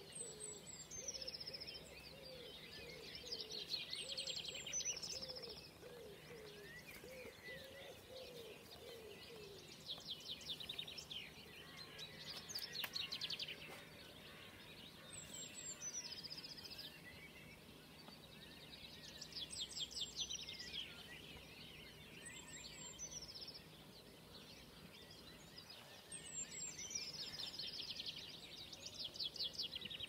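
Songbirds singing: a high phrase of thin falling notes and rapid trills, repeated every few seconds, with a lower wavering call underneath for about the first third.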